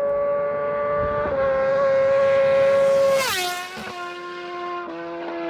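Sport motorcycle passing by fast with its engine held at high, steady revs. The note climbs slightly as it approaches, is loudest about three seconds in, then drops sharply in pitch and fades as the bike goes past.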